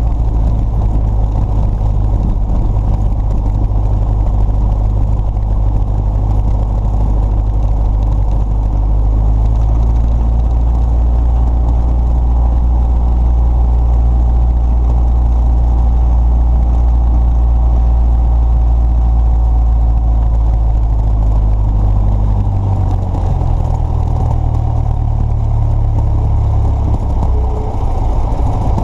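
A motor vehicle's engine running steadily with a deep rumble. Its low note shifts about 22 seconds in.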